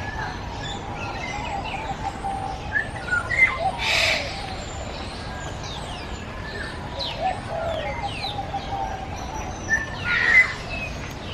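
Many birds calling together in a free-flight aviary: a steady mix of short falling chirps and whistles, with a louder, rougher burst about four seconds in and another near the end.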